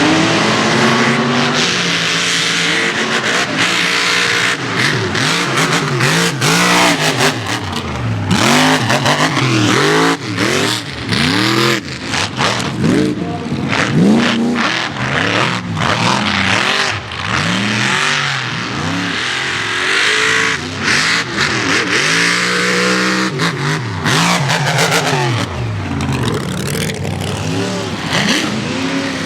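Mega mud truck engines revving hard through a mud pit, the pitch rising and falling over and over as the throttle is worked, over a loud noisy rush.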